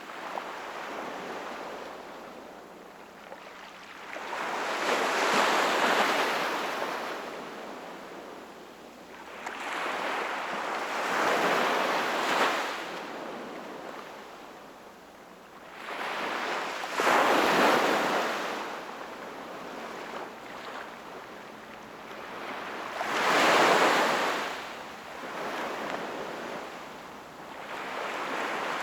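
Sea waves breaking and washing on the shore, each one swelling up and fading away, four times about six seconds apart.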